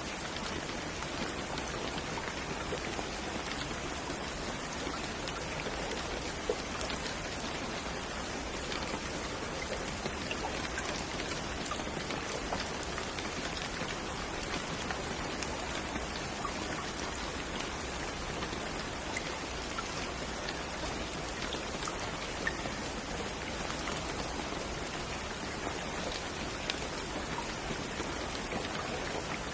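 Steady rain falling, an even hiss with many small drops ticking on a surface and a few louder single drop hits.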